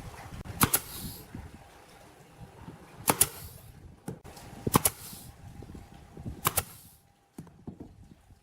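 Four sharp double knocks about one and a half to two seconds apart, each trailed by a brief hiss, from woodworking tools striking wood.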